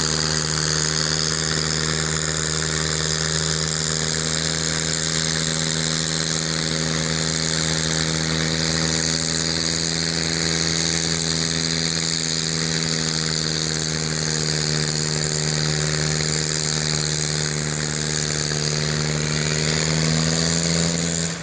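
Tractor engine running hard at a steady, even pitch, then cutting off abruptly at the end.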